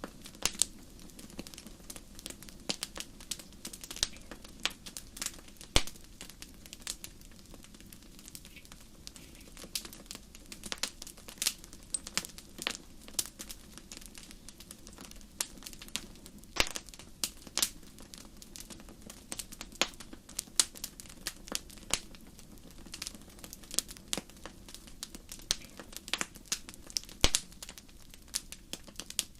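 Wood fire crackling, with irregular sharp pops and snaps over a low steady rumble of the burning fire.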